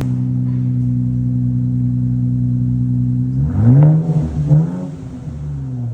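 2024 Nissan Z's twin-turbo V6 running through a newly fitted AWE Tuning exhaust, held at a steady engine speed, then blipped up twice about three and a half and four and a half seconds in before easing back down.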